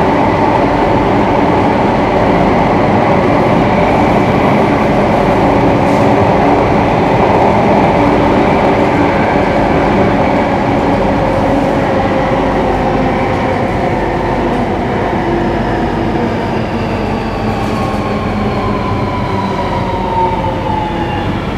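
Singapore MRT electric train running, heard from inside the carriage: a steady rumble of wheels on rail with a motor whine. Over the last several seconds the whine falls in pitch as the train slows.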